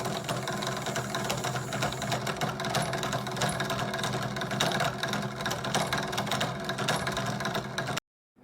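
A small electric motor running steadily with a low hum and a rapid, fine rattle. It cuts off abruptly about eight seconds in.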